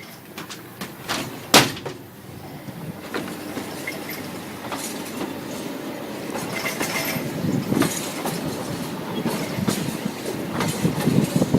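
Narrow-gauge train starting to roll and gathering speed, its wheels clattering over the rail joints and growing louder. A sharp bang comes about one and a half seconds in.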